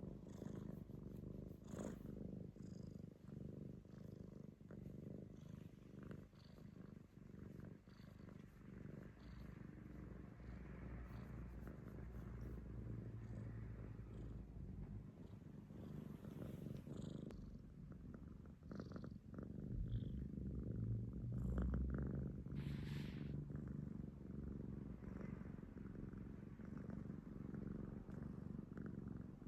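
Domestic cat purring steadily, a continuous low rattling rumble that grows louder about two-thirds of the way through, a sign of a contented, affectionate cat.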